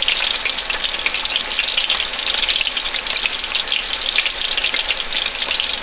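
Food frying in a pan: a steady, dense sizzle and crackle.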